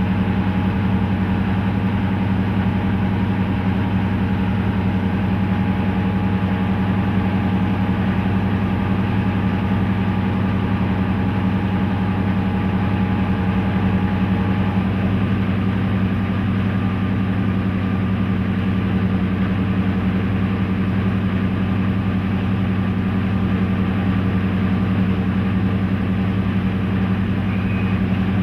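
Class 55 Deltic locomotive's Napier Deltic two-stroke diesel engines running steadily at an even, unchanging pitch, with a deep drone and a faint high whine that fades out about halfway.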